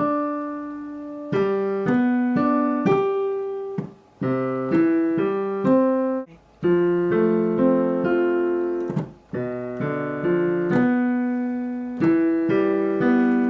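Piano played slowly as broken chords, one note at a time, each note left ringing under the next. The groups step down from chord to chord, with brief breaks between some of them.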